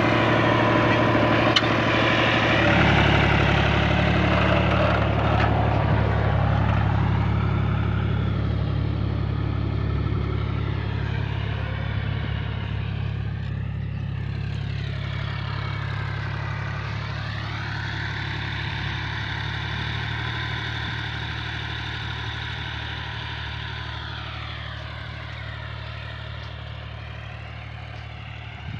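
John Deere tractor's diesel engine running steadily, gradually growing fainter.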